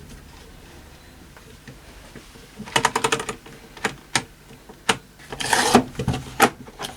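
Clicks and clatter of radio parts being handled and fitted during reassembly: a quick run of clicks a little under three seconds in, several single clicks after it, and a brief scraping rub about two thirds of the way through.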